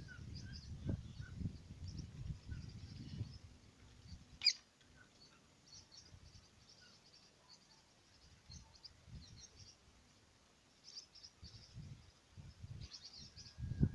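Faint, scattered high bird chirps, with one sharper, louder call about four and a half seconds in. Low rustling runs through the first few seconds and comes back near the end.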